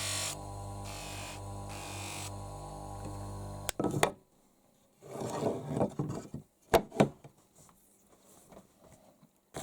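Background music for the first few seconds, then a woodcarving chisel cutting and scraping into wood in short strokes, with a few sharp knocks.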